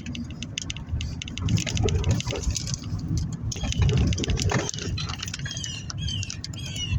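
Road noise inside a moving car: a low rumble with rapid, irregular clicking. About halfway through, a run of short, high squeaks starts, each falling in pitch.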